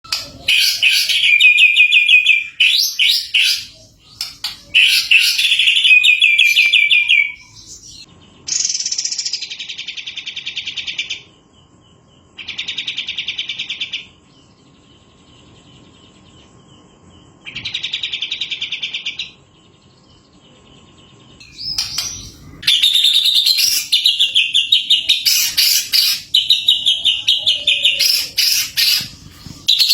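Caged songbirds in a white-rumped shama training recording: loud, varied whistled song phrases near the start and again from about two-thirds of the way in. In between come bursts of rapid, evenly repeated chattering notes lasting a second or two each, with short quiet gaps.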